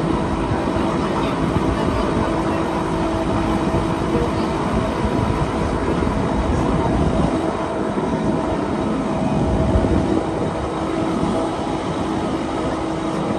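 Wengernalpbahn electric rack-railway train running, heard from inside the carriage: a steady rumble with a constant hum on top.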